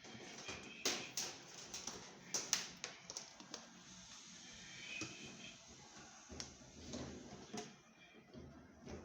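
Scattered clicks and knocks from hands and tools handling washing-machine parts. A few sharp ones come in the first three seconds, and quieter knocking follows.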